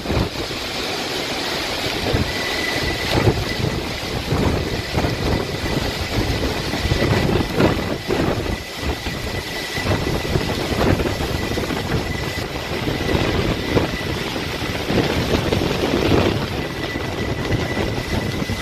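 Hurricane wind blowing in strong gusts and buffeting the microphone. From about two seconds in, a thin, steady high whistle runs through it.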